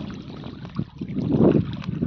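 Wind buffeting the microphone in gusts, a low rumbling rush that eases briefly and swells again about one and a half seconds in.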